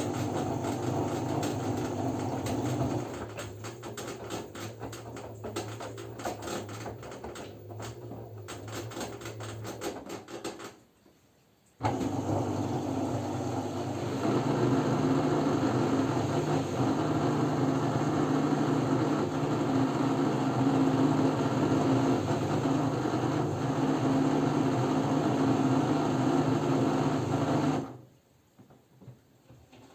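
LG F10B9LD front-loading washing machine working through the end of its second rinse, a steady motor hum with clicking. It pauses briefly about ten seconds in, then runs again louder and steady, and cuts off near the end.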